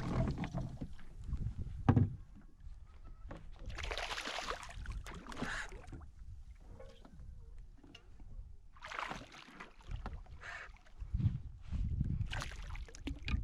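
Water splashing and bumping around a plastic fishing kayak while a fish is landed, with scattered knocks and one sharp knock about two seconds in.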